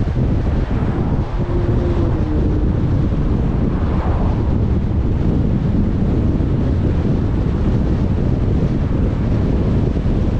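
Steady rumble of a car being driven, with road and wind noise. A faint short tone sounds and falls slightly in pitch between about one and three and a half seconds in.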